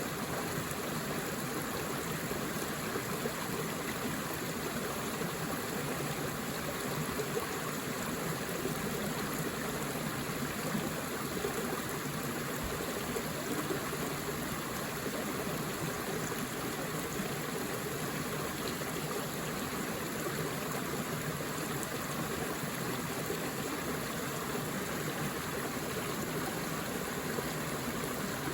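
Forest river flowing, a steady rush of water over rocks with gurgling.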